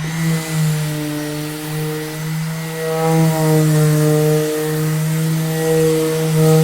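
Electric orbital sander running steadily at full speed with a constant motor whine, having just come up to speed at the start.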